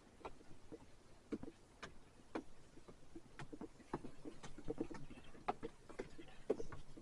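Footsteps climbing outdoor stairs: irregular knocks, about one to two a second.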